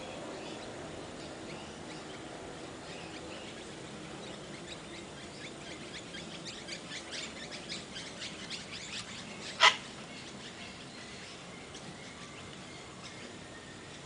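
Parrot giving a rapid run of short, high chirps that grow louder, then one sharp, loud snap a little before ten seconds.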